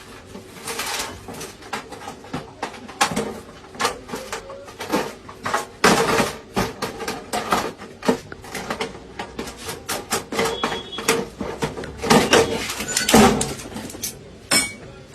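Irregular clicks and knocks from hands working on an object at close range, uneven in strength, over a faint steady hum.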